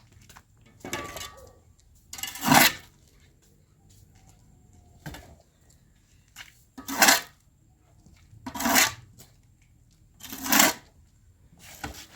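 Dishes being handled: about five short scraping noises, each about half a second long, spread a couple of seconds apart.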